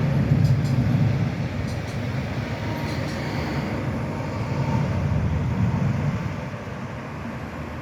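Zagreb tram rolling along its rails, a low rumble that swells near the start and again around five seconds, then fades away near the end.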